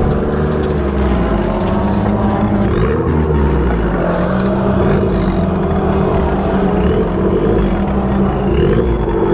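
Mazda Miata's engine, heard from inside the cabin, running at low revs while the car creeps forward to push a stalled car. Its pitch dips and rises slightly a few times.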